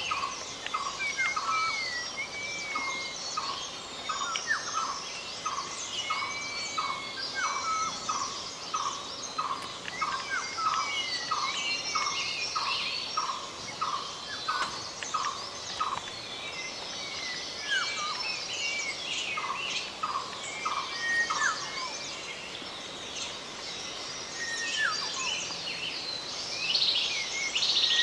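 Several wild birds calling together: one repeats a short note a little under twice a second, steadily, then more sparsely after about sixteen seconds, while others chirp and whistle higher.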